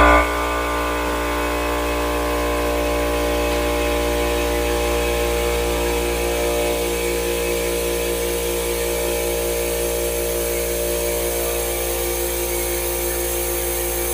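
Shop vacuum and air compressor running together, a steady drone with a low hum and several held whining tones. They provide air assist and smoke extraction for the laser cutter, which has not yet started.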